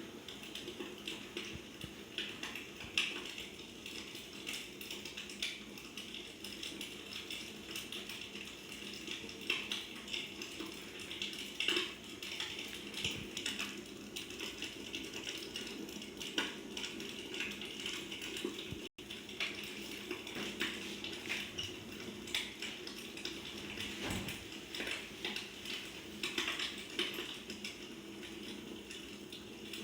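Wood fire burning in a fireplace, crackling with irregular sharp pops and snaps over a steady hiss.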